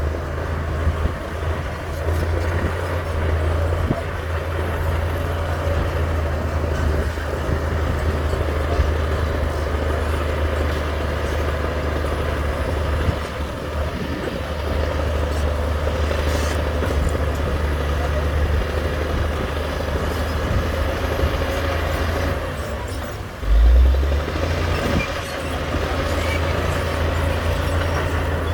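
Heavy diesel earthmoving machinery, a bulldozer or dump truck, running steadily with a deep engine hum and a steady whine above it. About 23 seconds in there is a brief louder surge in the low rumble.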